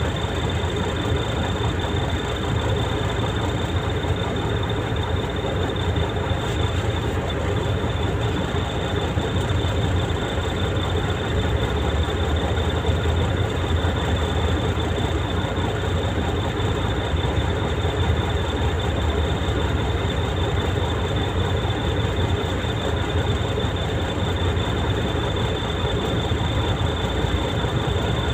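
Heavy truck's engine running steadily under way, a continuous low rumble with road noise and a thin, steady high whine above it.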